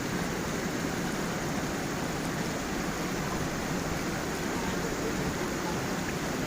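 Water of a small waterfall and stream flowing, a steady, even rush with no breaks.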